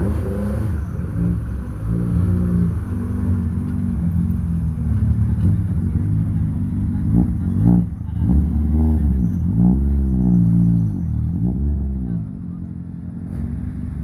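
Ford Escort Mk1 rally car engine revving hard, its note climbing and dropping again and again as it works through the gears, loudest around the middle and fading after about twelve seconds.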